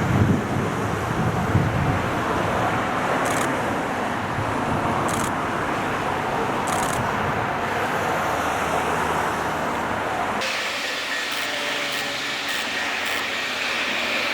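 Steady vehicle running-by noise with a heavier low rumble at first and a few brief sharp clicks; the sound changes abruptly about ten seconds in, like an edit to another scene.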